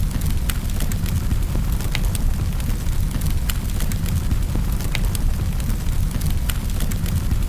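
Wood fire in a fireplace crackling: a steady low rumble of flames with scattered sharp pops and snaps.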